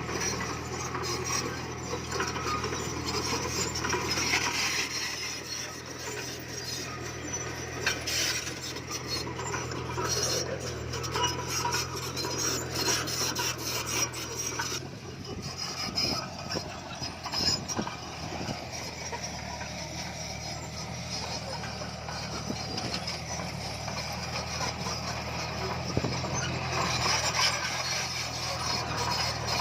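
Komatsu bulldozer's diesel engine running steadily under a dense clatter of scraping and clinking as stone is pushed and the steel tracks grind over it.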